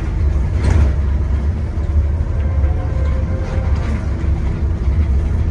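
Scania N230UD Omnicity double-deck bus driving, heard from on board: its five-cylinder diesel and running gear give a steady low rumble, with one short noise just under a second in.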